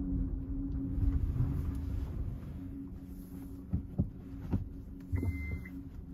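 Suzuki car's engine idling, heard from inside the cabin as a steady low hum. A few light clicks come in the middle, then a single short high beep about five seconds in as reverse gear is engaged and the rear camera and parking sensors switch on.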